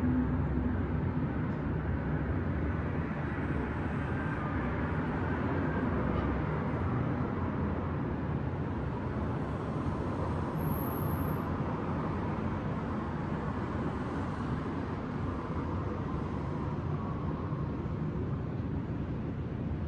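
City traffic ambience: a steady hum and rumble of road traffic, with vehicles swelling past now and then.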